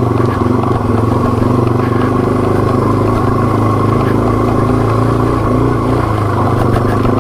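Yamaha TW200's single-cylinder four-stroke engine running steadily under way in a low gear, through its aftermarket DG exhaust.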